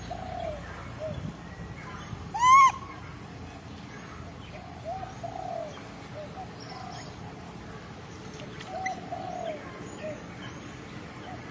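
Animal calls: short, arched cooing notes repeated on and off, with one loud, clear rising-and-falling call about two and a half seconds in.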